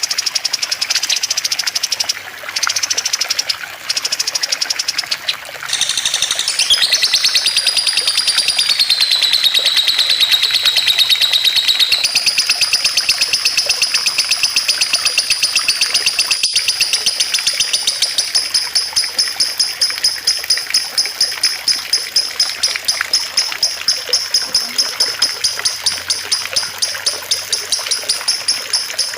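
Caged songbird singing a long, high, very rapid chattering trill, broken into short phrases at first and then continuous from about six seconds in, dipping in pitch and rising again, and turning into a quick pulsing near the end. Water trickles steadily underneath.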